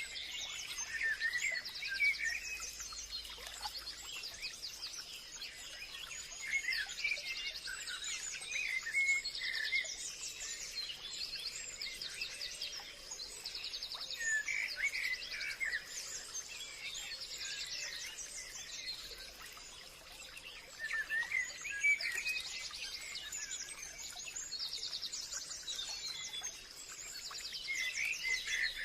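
Several wild birds singing and calling in forest ambience: repeated chirps and rapid trills, with a faint steady high-pitched whine behind them.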